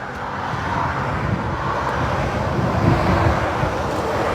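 Motorway traffic passing below: lorries and cars on the M5 with a steady rush of tyre noise over a low engine rumble, growing a little louder in the first second.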